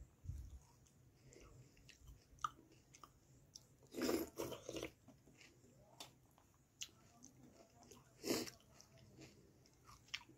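A person chewing a mouthful of rice and chicken curry close to the microphone, with soft wet clicks and squelches, and fingers mixing rice in the curry on a steel plate. Two louder bursts come about 4 s in and about 8 s in.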